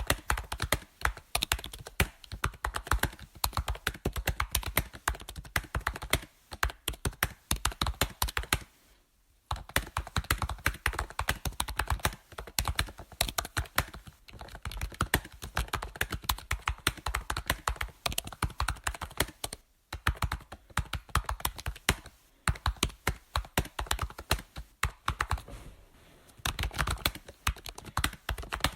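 Computer keyboard typing: rapid, uneven key clicks in quick runs, broken by brief pauses, the longest about nine seconds in.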